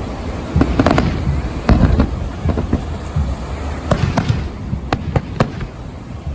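New Year fireworks going off in irregular clusters of sharp bangs and crackles, with a few single cracks near the end.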